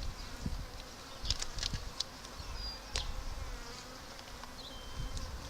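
Honeybees from a disturbed colony buzzing in flight, a steady faint hum, with wind rumbling on the microphone and a few short clicks.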